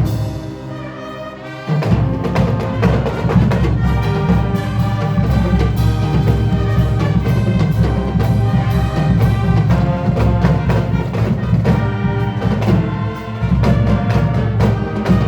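Marching band playing, brass with percussion including timpani; the full band comes in loudly about two seconds in and keeps playing.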